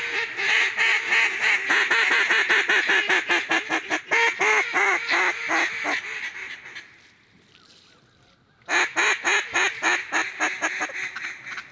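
Rapid runs of mallard-style duck quacking, about four quacks a second. A long series fades out after about six seconds, and a second series starts about two seconds later.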